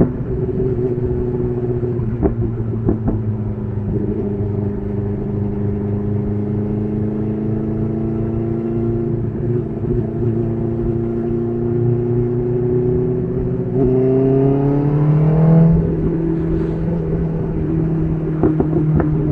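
BMW S1000RR's inline-four engine through an SC Project titanium exhaust, running steadily at road revs with its pitch sagging slowly. About 14 seconds in it revs up, then drops abruptly near 16 seconds as a gear is shifted, and holds steady again, with a few brief clicks.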